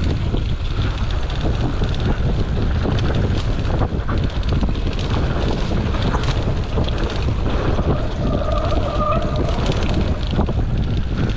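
Wind buffeting the microphone of a mountain bike riding fast downhill on a rough dirt trail, with the bike's rattles and knocks over bumps. A short pitched sound about eight seconds in.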